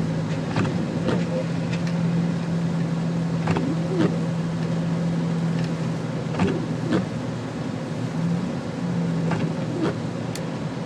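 Jeep TJ driving, with a steady low engine hum under an even wash of road and wind noise and a few scattered knocks and rattles.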